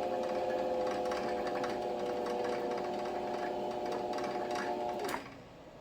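Electric sewing machine motor running steadily, winding thread onto the bobbin, with an even hum. It stops about five seconds in.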